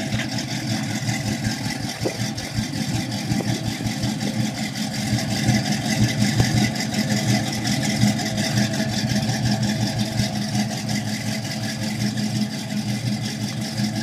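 1974 Pontiac Trans Am's V8 idling steadily through its exhaust just after starting, a little louder for a few seconds around the middle.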